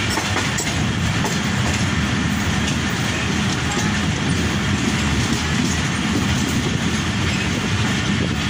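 Pakistan Railways passenger railcar train running along the line, heard from an open coach window: steady wheel-on-rail running noise of the moving coaches.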